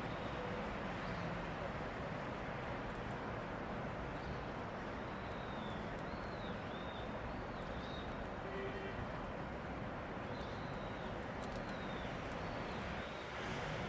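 Steady rain falling. A bird chirps repeatedly over it in short, high arching notes through the middle of the stretch.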